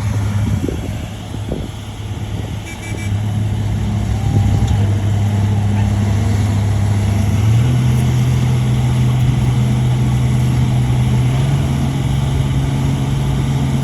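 Heavy earthmoving machine's diesel engine running steadily. Its speed steps up about halfway through and holds at the higher pitch.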